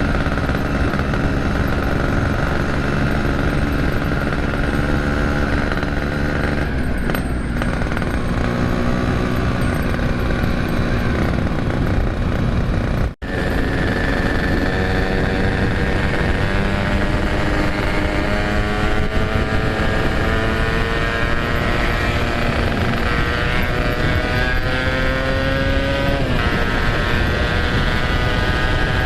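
Yamaha RX-King 135 motorcycle running under way through an RBK aftermarket exhaust. The engine note holds steady at first, cuts out briefly about halfway, then rises and falls with the throttle, climbing until it drops sharply near the end.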